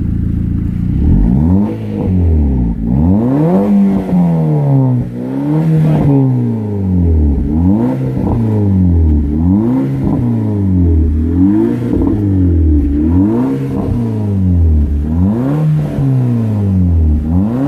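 VW turbo engine idling, then revved again and again through a custom-built exhaust, its pitch rising and falling about every second and a half.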